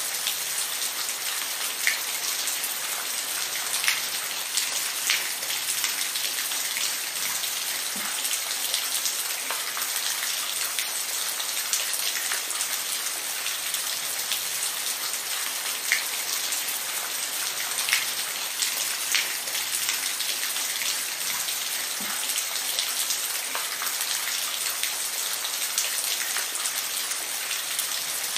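Steady rain falling, an even hiss with scattered louder individual drops ticking onto a surface.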